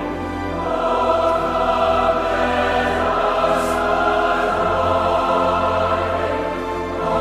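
Choral music: a choir singing sustained, slowly moving chords, swelling about a second in and easing off near the end.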